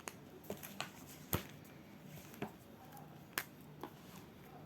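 A few faint, sharp clicks and taps at irregular intervals over quiet room tone, the loudest about a second in.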